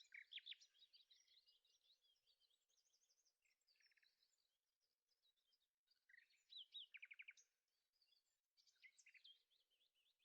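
Faint songbird chirping: many quick high chirps and short rapid trills in phrases, with a pause around the middle.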